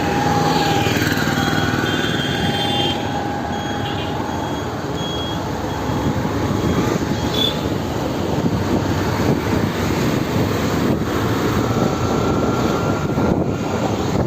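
Steady wind and road noise from a moving motorcycle in city traffic, with other vehicles passing and a run of short high beeps in the first half.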